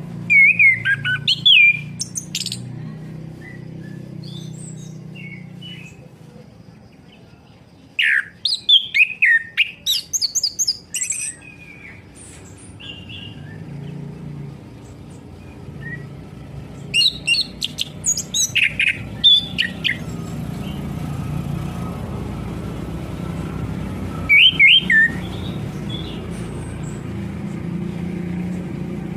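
Orange-headed thrush singing in four separate bursts of rapid, varied whistled notes with pauses between them, over a steady low hum.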